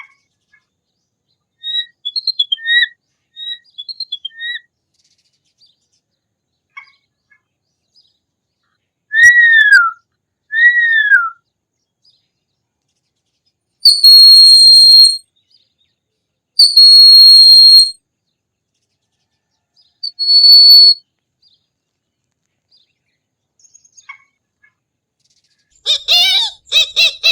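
Hawk calls: a few short chirps, then two whistled calls that fall in pitch, then three long steady high-pitched calls. Near the end comes a fast run of repeated notes.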